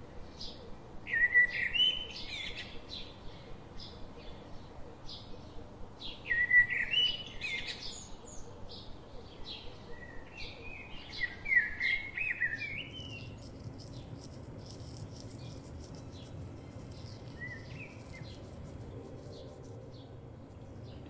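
Small bird chirping: three bursts of quick rising chirps, about a second in, about six seconds in and around eleven seconds, with short high ticking calls in between. A faint low hum comes in about halfway.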